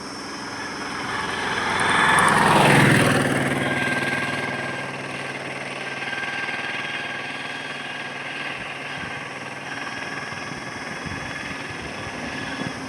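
Highway traffic: a motor vehicle passes close by. Its engine and tyre noise swell to a peak about three seconds in and then fade over the steady hum of further traffic.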